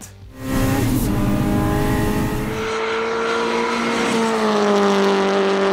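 Fiat 500 Abarth's turbocharged four-cylinder running at high revs, with little real exhaust system to quiet it. A rushing noise fills the first two seconds, then a steady engine note holds and sags slightly in pitch near the end.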